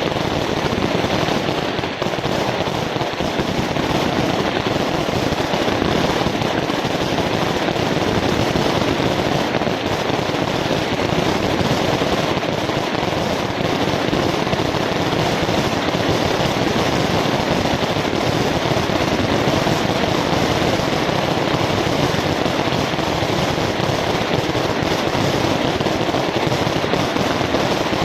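Fireworks going off in a dense, continuous barrage of rapid crackling bangs that never lets up.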